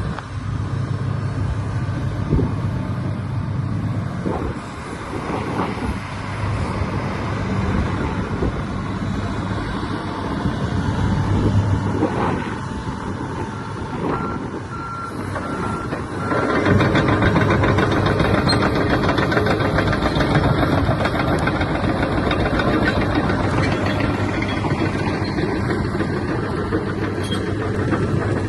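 2017 Komatsu PC300 excavator's diesel engine running, with its travel alarm giving a quick run of beeps about halfway through. Just after the beeps the engine gets louder and stays loud to the end.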